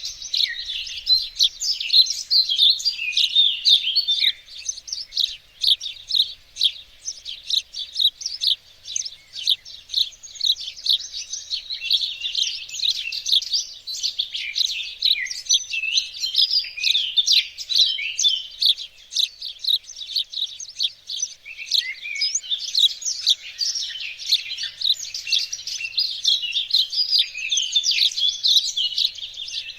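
Garden birdsong: several small birds chirping and singing together in a dense, overlapping chorus.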